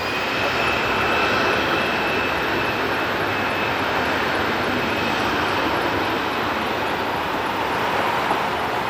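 Airliner passing low overhead near the runway: a steady, loud engine noise with a thin high whine over the first few seconds.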